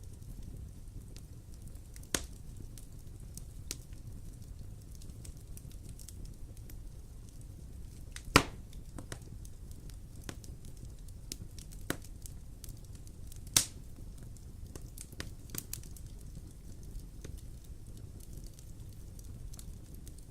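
Wood fire in a fireplace crackling over a low steady rumble of the flames, with scattered sharp pops; the two loudest come about 8 and 13 seconds in.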